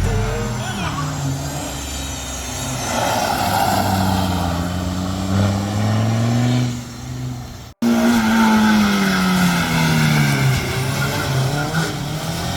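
Hill-climb race car engines at full throttle, the pitch climbing and dropping through gear changes. About eight seconds in there is an abrupt cut to another car, loud at first, its engine pitch sliding down.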